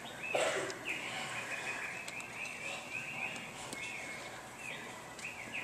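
A caged songbird chirping, played as a theatre sound effect: a string of short, arching chirps repeating a few times a second.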